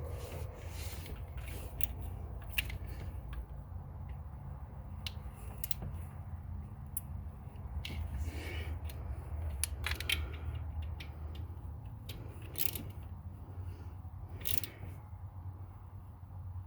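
Irregular clicks and taps of hand tools and metal parts as the new EGR valve's screws are tightened by hand, over a steady low hum.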